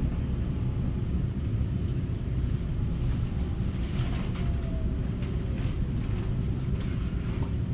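Steady low rumble inside a Taiwan Railway EMU900 electric multiple unit car, with a few faint clicks and a faint falling whine about halfway through.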